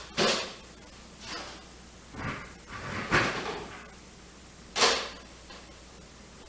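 Tools and tool boxes being handled: about five short clunks and rattles of metal tools and box lids or trays, a longer rattling scrape around three seconds in and a sharp knock about five seconds in.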